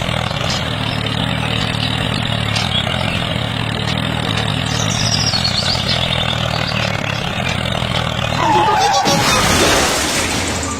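Vehicle engine running with a steady low hum. About eight and a half seconds in, a louder hissing rush joins it, with a short falling tone, and stops abruptly near the end.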